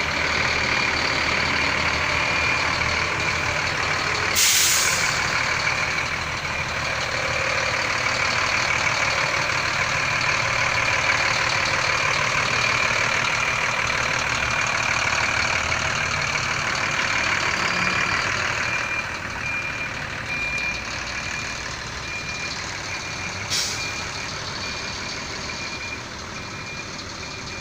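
Bus diesel engine running steadily, with two short sharp hisses of air, one about four seconds in and one near the end, like an air-brake release. A steady high tone runs throughout and breaks into rapid beeping near the end.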